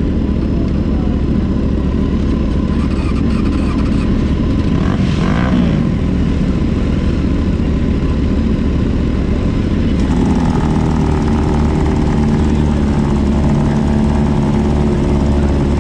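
Motorcycle engine running steadily while riding, over low wind rumble. About ten seconds in, the engine note changes.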